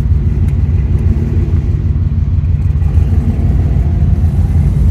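1990 Chevrolet Corvette's V8 engine running, a steady low rumble.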